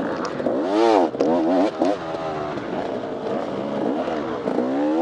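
Dirt bike engine under race load, its pitch rising and falling sharply as the throttle is worked, with quick rev swings about a second in and again near the end.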